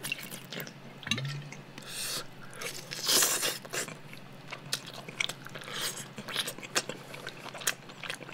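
Chewing and eating noises of a person eating roast chicken pulled apart by hand: a run of short, irregular sticky clicks and smacks, with a louder noisy patch about three seconds in.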